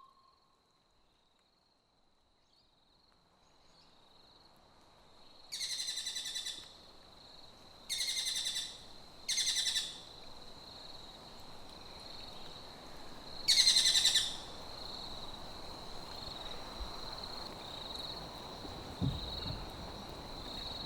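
Jungle ambience fading in from near silence, with a steady high insect drone. Over it come four loud, buzzy animal calls of about a second each; the last is the loudest.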